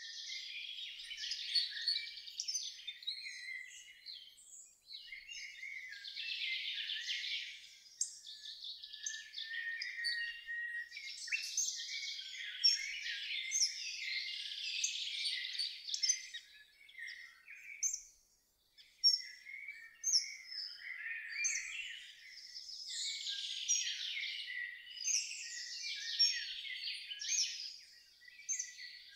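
Songbirds singing and chirping, many high, short notes and trills overlapping in a continuous chorus, with brief lulls about 8 and 18 seconds in.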